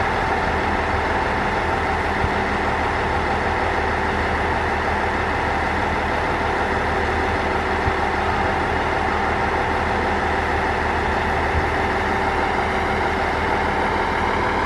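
Diesel railcar's engine idling steadily, a constant hum with a few faint knocks.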